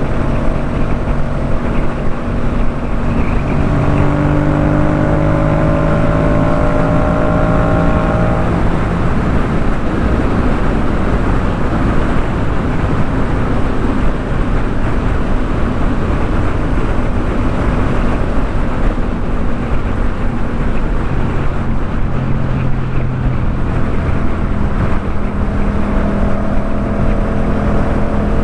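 2018 Yamaha MT-07's parallel-twin engine running through a Jeskap K4 full exhaust while riding, with its pitch rising gently a few seconds in as it accelerates. Through the middle, wind and road rush mostly covers the engine, which comes through more clearly again near the end.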